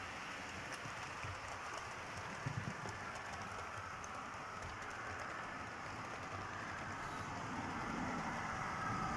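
Model train running along the track: a steady hiss and rumble of wheels and motor with a few faint clicks, getting louder near the end as it comes closer.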